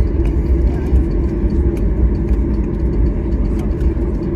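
Steady low engine rumble with scattered faint light clicks.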